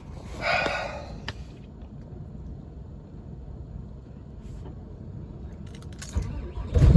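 A low, steady background rumble with a short burst of noise about half a second in, then right at the end the 6.7 Cummins diesel's starter kicks in and the engine begins cranking on a 3°F cold start, after the glow plugs have cycled.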